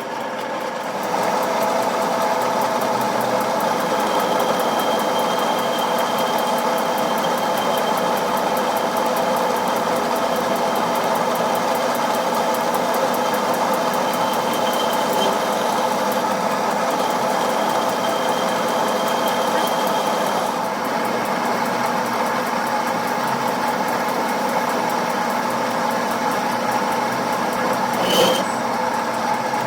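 A workshop machine running steadily with a constant hum and a faint high whine. It gets louder about a second in, and a single sharp knock comes near the end.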